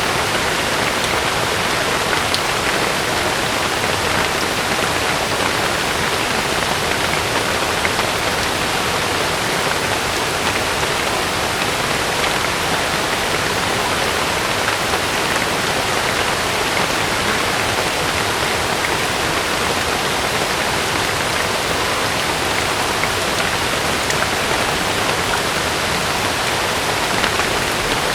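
Heavy rain falling steadily on a camping tent, a dense even hiss of drops with no break or swell.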